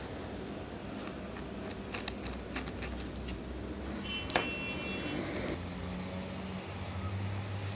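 Light clicks and taps of small parts and hand tools being handled while a computer is taken apart: a run of quick clicks about two seconds in and one sharper click a little after four seconds. A steady low hum sits underneath.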